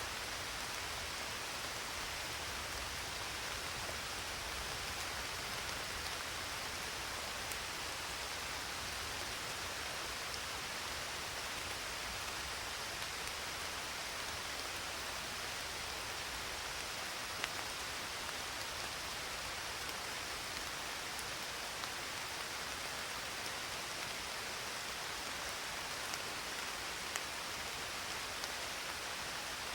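Steady rain falling, a dense even hiss with a few individual drops ticking now and then.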